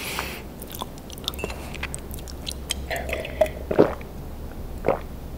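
Close-miked chewing of crunchy Pringles crisps, with many small mouth clicks and a few louder crunches in the second half.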